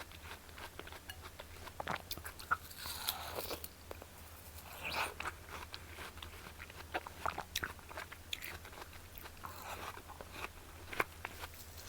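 Close-miked bites and chewing of crisp, juicy watermelon: irregular wet crunches and small clicks, one every second or so.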